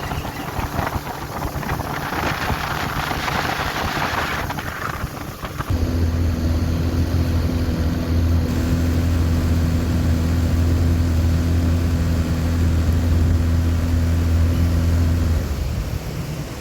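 Boat's outboard motor running, with wind rushing over the microphone. About six seconds in, a strong, steady low engine drone comes up and holds, then drops back near the end.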